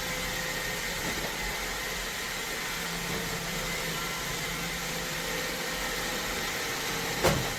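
iRobot Roomba Vac Essential robot vacuum running: a steady whirring hum of its suction motor and brushes, with a brief sharp sound near the end.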